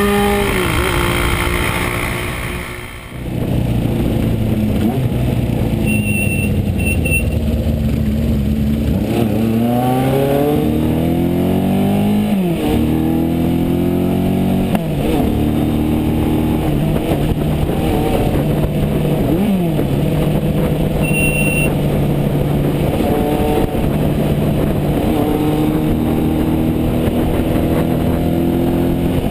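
Honda CB550 Four's inline-four engine, breathing through a MotoGP Werks aftermarket exhaust, pulling up through the gears on the road. The pitch climbs in each gear and drops at three gear changes, then holds steady at cruising speed.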